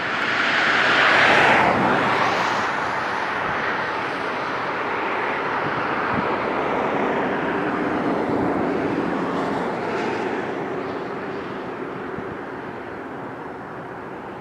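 GO Transit bilevel commuter train hauled by an EMD F59PH diesel locomotive running past and away: engine drone and the rumble of wheels on rails, loudest about a second in, then slowly fading.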